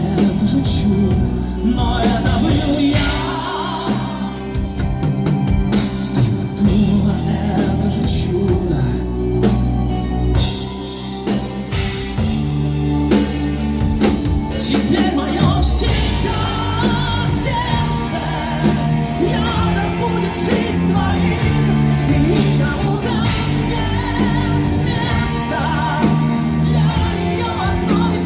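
Pop-rock song played by a band, with singing over drums and sustained bass and keyboard or guitar chords.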